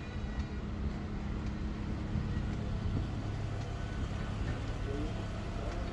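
Motor vehicle engine running on the street close by: a steady low rumble with a faint droning tone, amid general traffic noise.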